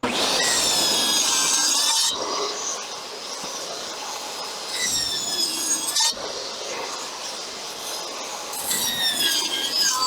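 Power saw ripping boards lengthwise, its motor running steadily, with a high whine that drops in pitch three times as the blade takes each cut.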